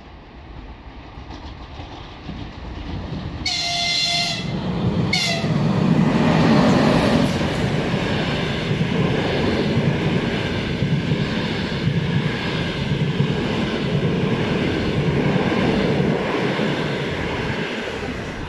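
An EP20 electric locomotive hauling a double-deck passenger train approaches and sounds its horn: one long blast about three and a half seconds in, then a short second blast a second later. The train then passes close by with a loud, steady rumble of wheels on the rails and clacking over the rail joints.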